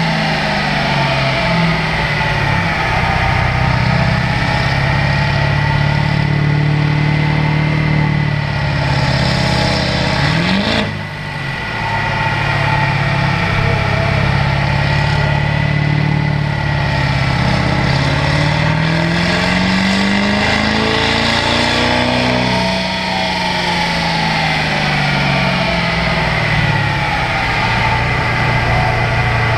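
Turbo diesel pickup engine running hard on a chassis dynamometer. Its note climbs and falls several times, with a brief drop and quick rise about eleven seconds in.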